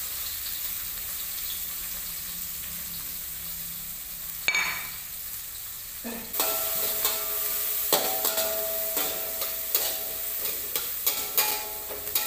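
Sliced shallots, garlic and chillies sizzling in hot oil in a wok. About halfway, a spatula starts stirring them, knocking against the wok in quick ringing clinks over the steady sizzle.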